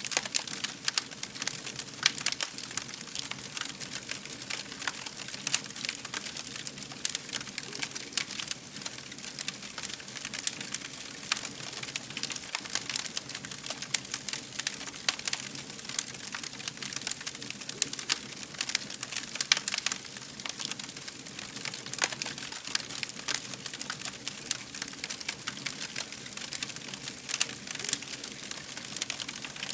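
Wood fire crackling: a steady stream of sharp pops and snaps over a soft hiss, with no pause.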